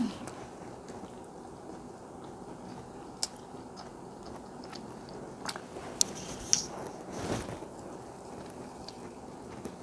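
Close-miked chewing and wet mouth sounds of someone eating chicken biryani rice by hand, with a few sharp clicks a few seconds apart, two of them close together past the middle.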